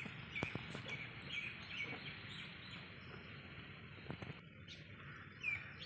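Birds chirping faintly: a run of short, quick chirps through the first couple of seconds and a single falling chirp near the end, with a few soft knocks.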